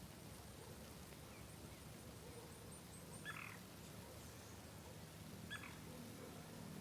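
Quiet outdoor ambience with two short bird calls, about three and five and a half seconds in, and a run of faint high chirps in the first half.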